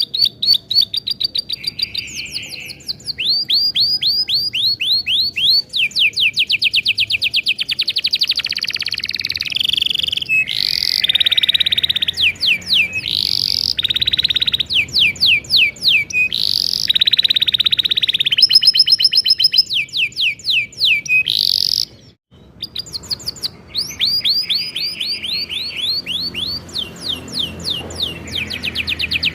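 Domestic canary singing a long, loud song of rapid repeated trills ("rolls"), one fast-repeating phrase after another with the note changing between them. A brief break in the song a little past two-thirds through.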